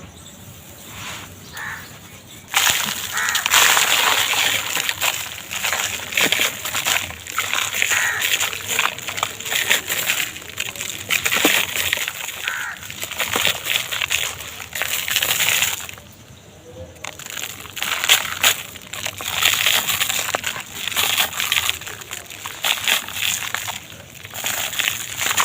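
Dry, brittle material being crushed and crumbled by hand: dense crunching and crackling with many sharp cracks. It starts about two and a half seconds in, dies away for about a second past the middle, then resumes.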